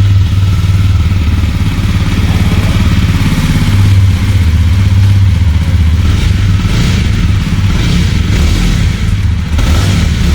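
Jawa Perak's 334cc single-cylinder engine running, its exhaust note fairly steady and deep.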